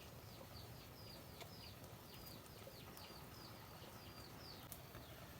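A bird calling faintly: a run of short, high, downward-slurred notes, about three a second, that stops near the end.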